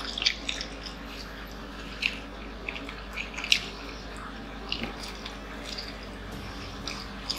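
Close-miked chewing and biting of fried chicken nuggets: wet mouth smacks and clicks come at irregular moments over a steady low hum.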